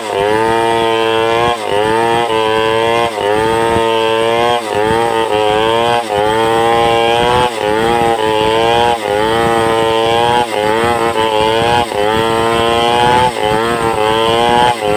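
Two-stroke chainsaw running hard while cutting along timber to make planks. Its pitch dips and recovers about every second and a half as the bar is worked through the wood.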